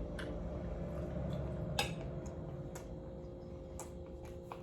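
Cutlery clicking against a plate while eating, about five light clinks with the loudest about two seconds in, over a steady hum.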